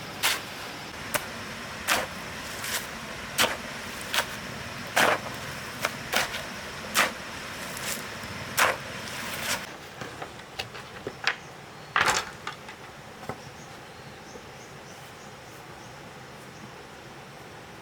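Repeated sharp knocks, a little more than one a second, over a steady hiss, stopping about ten seconds in; then a few scattered lighter knocks and one louder one.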